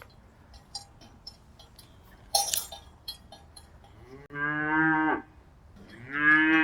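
Cow mooing twice: one call lasting under a second about four seconds in, and a second starting about six seconds in and running on past the end. Faint ticks are heard in between, along with a short burst of noise about two and a half seconds in.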